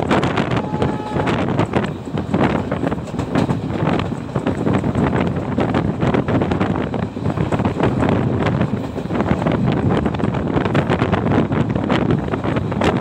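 Passenger train running at speed, heard from on board, with wind buffeting the microphone and a dense, steady rattle of running noise.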